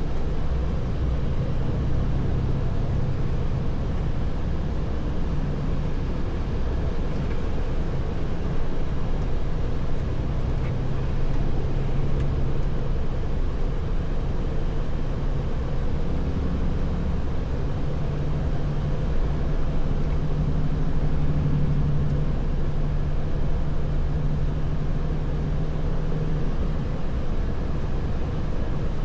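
Truck's diesel engine running steadily under way, with road and tyre noise; its low hum shifts slightly in pitch a few times as the engine speed changes.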